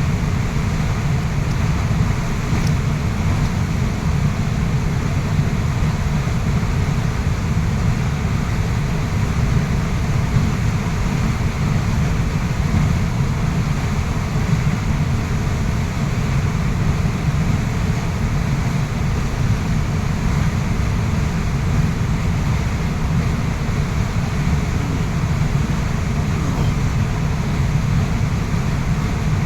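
Waterfall rushing: a steady, unbroken sound of falling water, heaviest in the low range.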